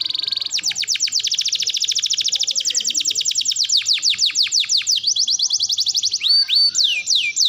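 Domestic canary singing: a very rapid trill, then a long row of quick downward-sweeping notes at about eight a second, a faster trill about five seconds in, and slower swooping notes near the end.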